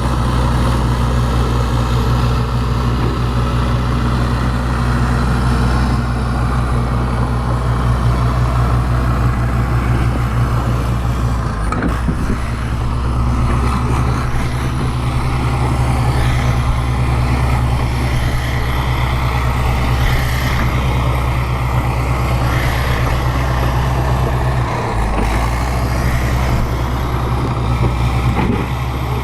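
Bulldozer's diesel engine running steadily, with brief breaks in the sound about twelve seconds in and again near twenty-five seconds.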